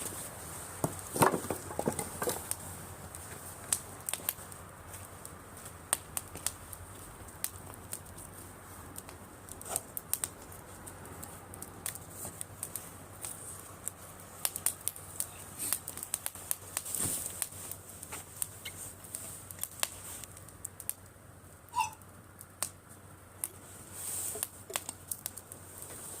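Driftwood campfire burning, crackling with many sharp pops and snaps scattered irregularly over a low steady hiss.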